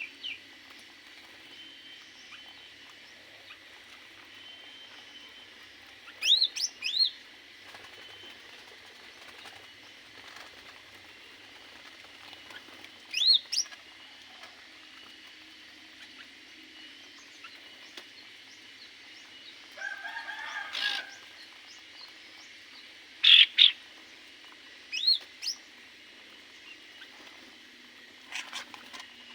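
Aviary birds giving short, sharp chirps every few seconds, several sweeping upward in pitch, with a longer, rougher call about two-thirds of the way through, over a steady faint background hum.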